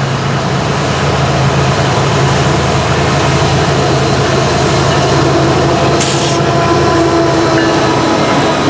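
Freight train cars rolling past with a steady loud rumble and wheel noise on the rails, with a brief hiss about six seconds in.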